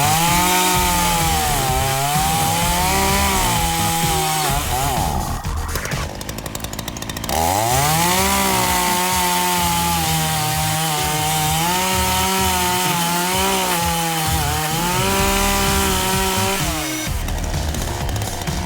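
Two-stroke gas chainsaw running at high revs and cutting branches, its pitch sagging and recovering again and again as the chain bites. It drops off briefly about five seconds in, then picks up and cuts again.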